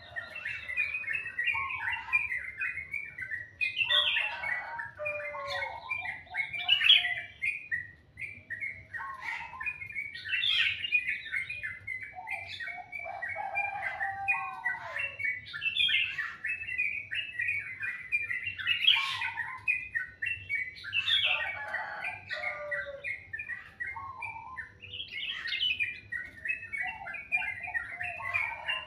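Songbird singing continuously: fast, varied chattering phrases mixed with lower whistled notes, repeating every second or two.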